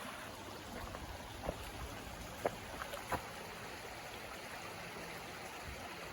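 A creek running steadily, a soft even rush of water, with a few faint taps in the first half.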